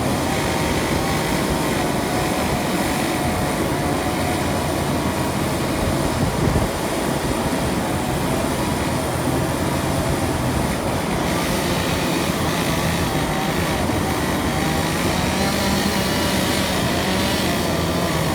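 Engine running steadily at an even speed, with a brief louder knock about six and a half seconds in.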